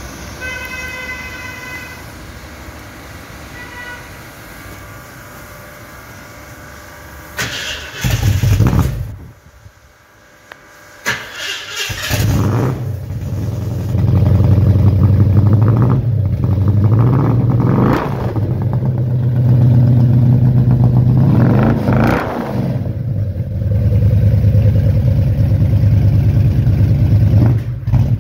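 Ford Mustang V8 of the early 1970s: a short loud burst about eight seconds in, a few seconds' quiet, then the engine catches and runs loudly, revved up and back down several times.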